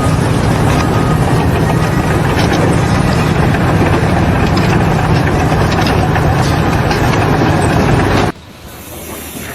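A large engine running steadily and loudly, with a low, even hum under a dense noise and some light clicks. It cuts off suddenly near the end.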